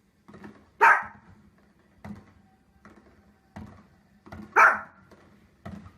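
A dog barking: two loud single barks about four seconds apart, with fainter short sounds between them.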